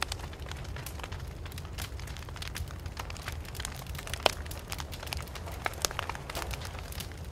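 Wood fire crackling, with many sharp pops and snaps over a steady low rumble of the burning; one louder pop a little past halfway.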